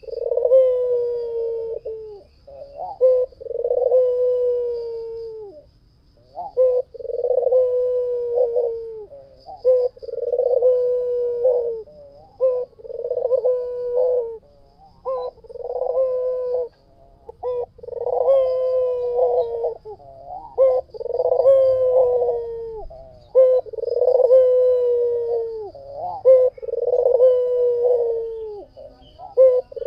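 White puter dove cooing without pause: a long run of low, rolling coos, one about every two seconds.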